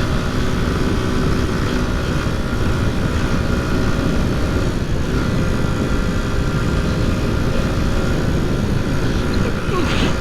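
Honda C90 single-cylinder four-stroke engine running steadily while the bike rides along, with wind rushing over the microphone.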